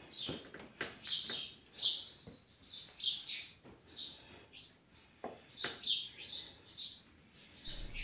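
Small birds chirping: short falling chirps, several a second in irregular runs, with a few faint knocks among them.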